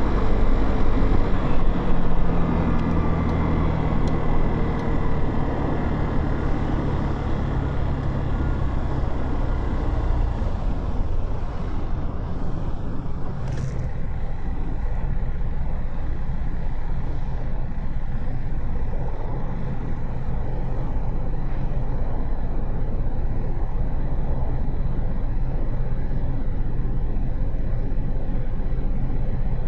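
Motorcycle running through city traffic, heard from the rider's onboard camera: a steady low engine and road rumble. The engine tone eases off in the first dozen seconds and the sound settles lower and steadier after that, with one short click in between.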